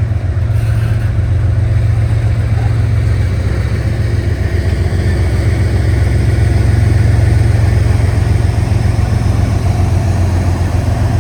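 GE ES44AC diesel locomotive, working as a distributed power unit in the middle of a freight train, passing close by: a loud, steady, low engine drone over the train's rolling noise.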